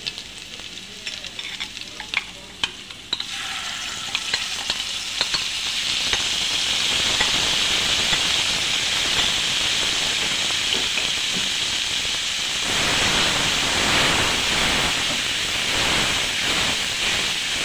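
Chopped garlic crackling in hot oil. About three seconds in, a red masala mix is poured into the pan and it breaks into a loud, steady sizzle. Later the sizzling mixture is stirred with a spatula.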